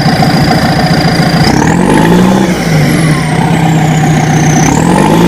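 Tractor-like diesel engine sound, starting abruptly and running loudly, its pitch dipping and rising a little as if revving, with a high whine sweeping up and down above it.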